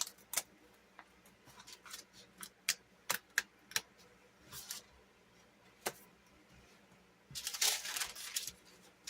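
A wall decal sticker being peeled slowly off its backing sheet, with the paper handled: scattered small ticks and crinkles, then a longer papery rustle about seven seconds in.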